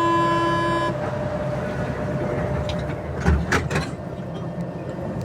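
NS-93 metro train's door-closing warning, a steady tone that cuts off about a second in, then the sliding doors shut with a few quick knocks about three and a half seconds in, over the steady hum of the stopped carriage.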